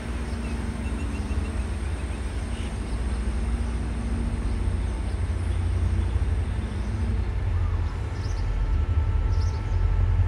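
Diesel railcar train running slowly along yard tracks: a low engine and wheel rumble that grows louder over the last few seconds, with a faint steady whine above it near the end.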